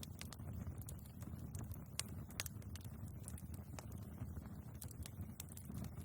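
Wood fire burning in a fireplace: a steady low rumble of the flames with frequent sharp crackles and pops from the logs, one louder pop about two seconds in.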